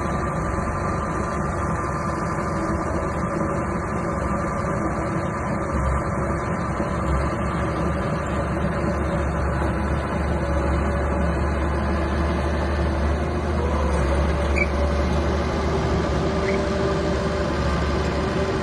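Small bulldozer's diesel engine running steadily, with a strong low drone that grows heavier through the middle. About two-thirds through, the engine's pitch lifts slightly.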